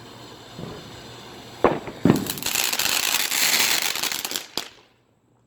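Consumer fireworks going off: two sharp bangs about a second and a half in, then a dense crackling hiss for a little over two seconds, ending with a last crack, after which the sound cuts off suddenly.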